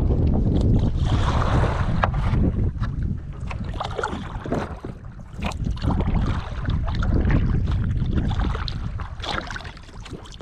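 Kayak paddle splashing and dripping in the water stroke after stroke, over a heavy low rumble of wind buffeting the microphone.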